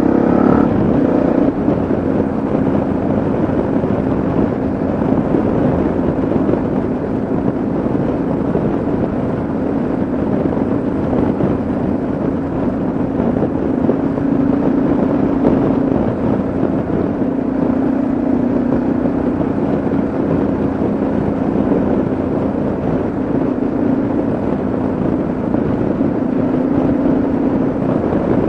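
Yamaha XT660Z Ténéré's single-cylinder engine running at a steady cruise, its note rising and falling slightly, under a constant rush of wind and road noise.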